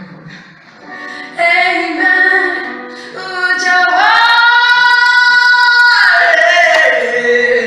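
A high voice singing a melody unaccompanied, holding one long high note for about two seconds in the middle, then sliding down in pitch near the end.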